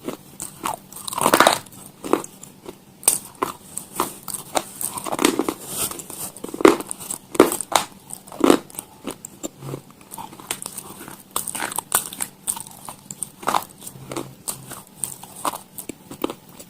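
Crunchy food being bitten and chewed close to the microphone: irregular sharp crunches and crackles, a few louder bites among softer chewing.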